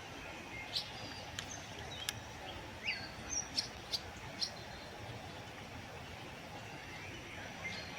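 Wild birds giving scattered short chirps and a couple of brief whistled notes, bunched in the first half, over a steady hiss of outdoor background noise.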